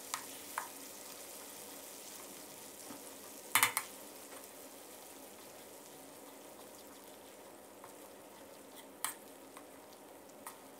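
Salted-egg chili paste frying gently in oil in a wok over medium-low heat, stirred with a metal spoon: a faint steady sizzle. A few clinks of the spoon against the wok come through, the loudest a little over three and a half seconds in.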